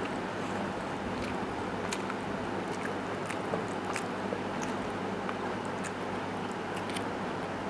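Close-miked eating sounds: a person chewing soft rice and chicken stew, with small wet mouth clicks and smacks scattered throughout, over a steady background hum.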